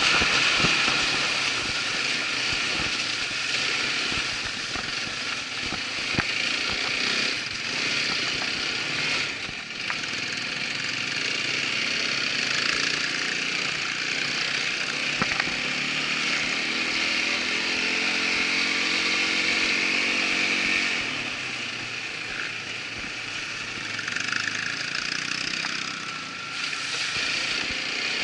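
Irbis ATV 200 quad bike's engine running while being ridden, with scattered knocks and rattles, most of them in the first several seconds. For a few seconds past the middle a steadier engine note stands out.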